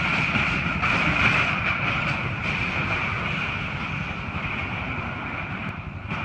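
Heavy metal grinding and scraping over a deep rumble as a ship's hull strikes and drags against a bridge, starting suddenly just before and slowly fading.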